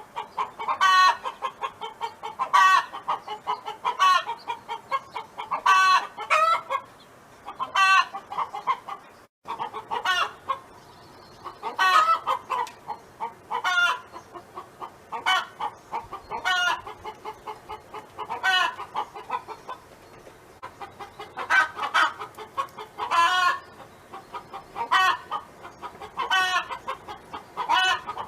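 Domestic hen singing and clucking: a steady series of short, pitched calls about every one to two seconds, with a brief dropout about nine seconds in.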